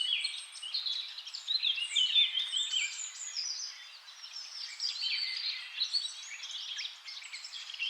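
Several songbirds singing at once: dense, overlapping high chirps and quick falling whistles, with no pause.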